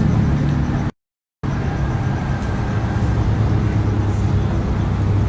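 Lamborghini Aventador V12 with a Gintani aftermarket exhaust running steadily at low revs, a deep exhaust rumble. The sound cuts out completely for about half a second about a second in.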